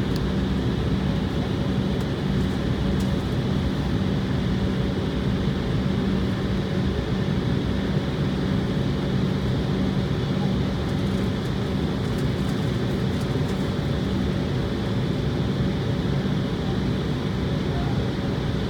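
Steady cabin drone of an Embraer jet airliner's engines at low power on the ground before takeoff: a low, even hum with a steady tone under a constant rush of air.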